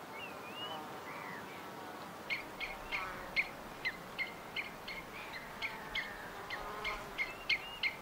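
Songbird calling in a string of short, sharp chirps, about three a second, starting a couple of seconds in, after a few thin whistled glides near the start; all over a steady hiss.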